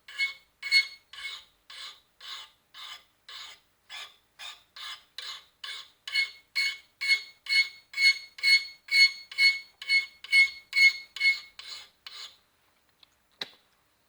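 High-carbon steel knife blade stroked back and forth on a medium-grit sharpening stone, about two even strokes a second, many with a ringing note from the blade. The strokes stop about two seconds before the end, and a single click follows.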